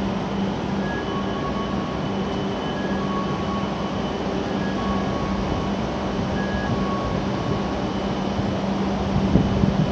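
A W7 series Shinkansen train standing at the platform, its onboard equipment giving a steady hum with a low drone, amid the noise of the station. Faint short tones repeat now and then in the background.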